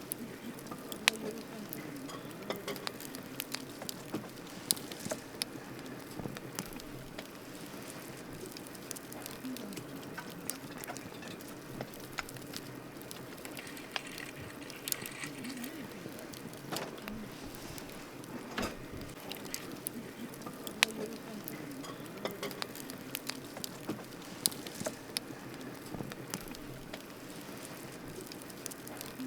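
Wood campfire burning: a steady low hiss with irregular crackles and sharp pops from the burning wood.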